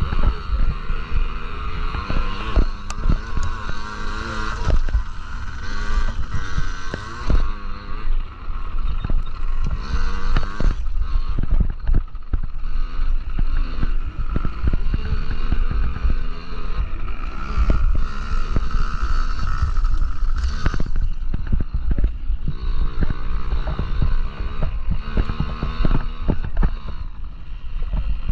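Yamaha PW50 49cc two-stroke minibikes racing, their engines revving up and down again and again, with wind buffeting the microphone.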